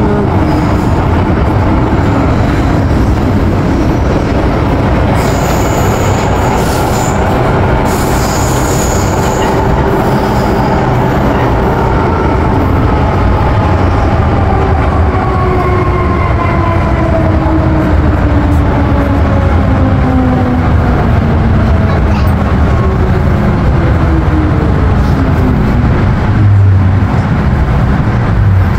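MTR M-Train electric multiple unit running, with continuous rumble and wheel noise. From about twelve seconds in, several whining tones fall steadily in pitch as the train slows. Short hissing bursts come a few seconds in.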